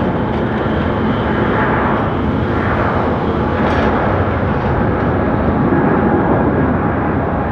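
Boeing 777 jet engines running at high power: a loud, steady rush of jet noise with a thin, steady whine over it.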